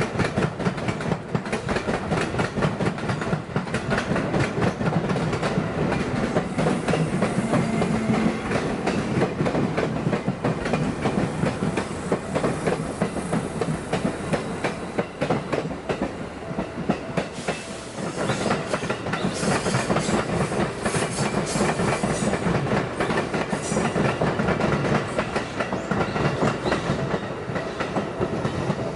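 Electric commuter trains passing one after another at a level crossing, their wheels clattering steadily over the rail joints. The clatter dips briefly a little past the middle, then picks up again as the next train passes.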